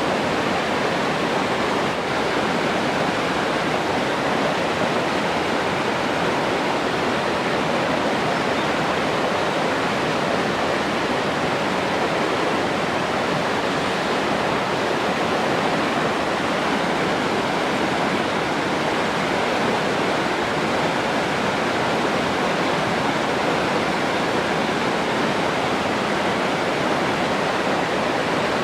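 Steady rushing water, an even, unbroken hiss that holds at one level throughout.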